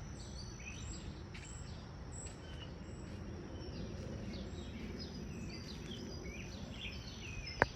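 Small birds chirping in quick, repeated short notes over a steady low outdoor rumble, with a single sharp click near the end.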